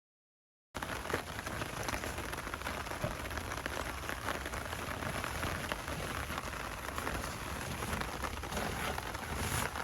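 Steady rain falling, a dense patter of many small drops, starting suddenly less than a second in.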